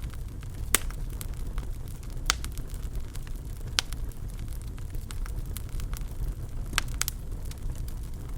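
Fire crackling in a fireplace: a low steady rumble under many small ticks, with a handful of sharp pops, two of them close together near the end.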